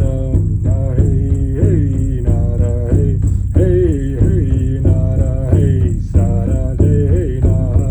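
Music: a voice singing a chant-like melody in held, gliding notes over a steady low drone.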